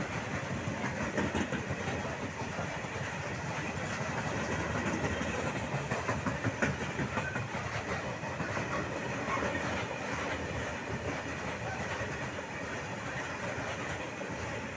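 Freight train's hopper wagons rolling quickly past close by: a steady rumble of wheels on rail, with a dense clickety-clack of wheels over the rail joints.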